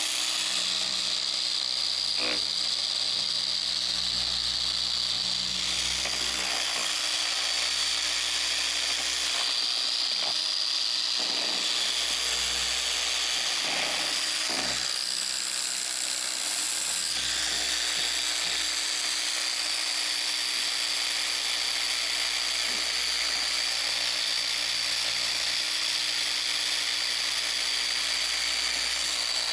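Small electric car-paint polisher running steadily against the paint, a continuous high whine with a hiss of the pad on the panel, during machine paint correction of swirls and water spots.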